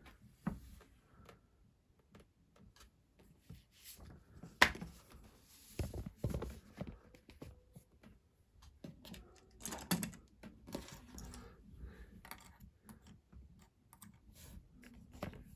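Light handling noises: scattered small clicks and paper rustles as Lego instruction booklets and pieces are handled, with one sharper click about four and a half seconds in.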